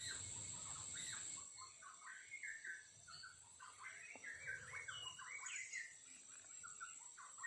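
Songbirds chirping, a quick run of short, varied notes, over a steady high insect drone.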